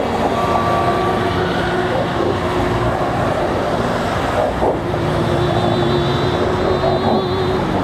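A line of tow trucks and other vehicles driving past, with the steady noise of engines and tyres and several long, steady tones at different pitches held over it, overlapping and changing every second or two.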